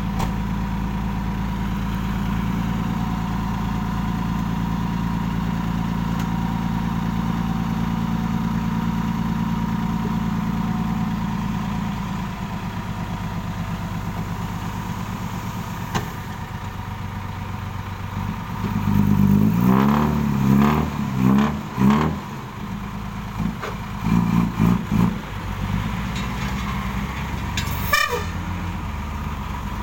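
Six-wheel dump truck's diesel engine running steadily, then revved in several short bursts about two-thirds of the way through, with a short hiss near the end.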